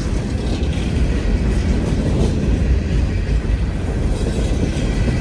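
Norfolk Southern freight train rolling past: a steady low rumble of wheels on rail.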